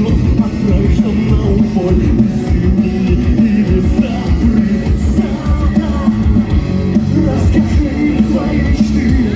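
Live rock band playing loud music, with a steady drum beat driving it.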